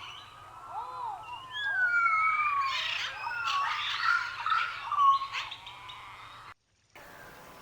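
Several birds calling: high whistles, some sliding down in pitch, mixed with short chirps. The sound cuts out briefly near the end, then a few short chirps follow.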